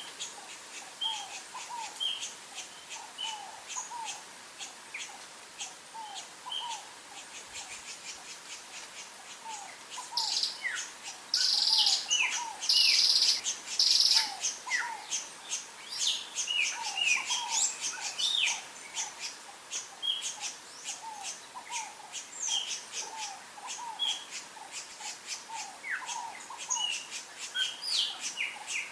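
Several wild birds chirping and calling over one another: short repeated chirps in a few different pitches, with faint ticking throughout. About ten seconds in, a few louder, harsher bursts of calls stand out for several seconds.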